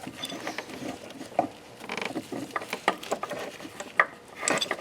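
Scattered light clicks, taps and scrapes of metal parts handled by hand: a bolt being placed and fitted into a front engine mount.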